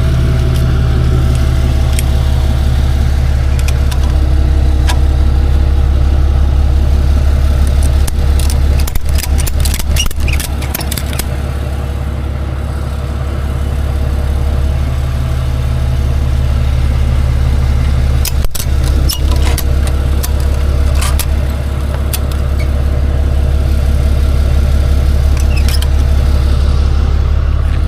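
Tow truck engine running steadily at idle, with scattered clicks and clanks about a third of the way in and again a little past the middle.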